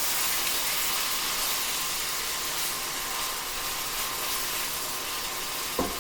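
Beef browning in a skillet, sizzling with a steady hiss. A single short knock comes near the end.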